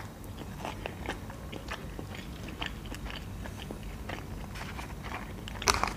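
People chewing burger and fries, with soft wet mouth clicks throughout and one sharper, louder sound about a second before the end.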